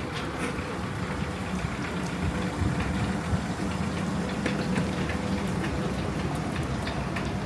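Steady rain falling, with scattered raindrop ticks over an even hiss and a faint low steady hum underneath.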